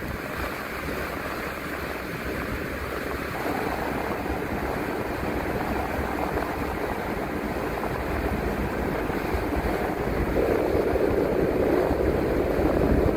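Transit bus on the move, heard from the driver's seat: a steady rumble of engine, tyres and wind, growing gradually louder.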